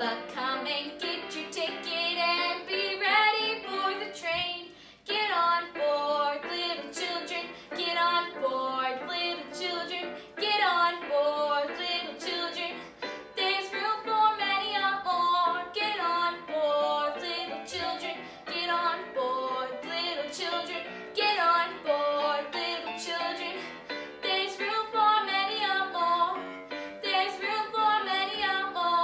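A girl singing a song with instrumental accompaniment.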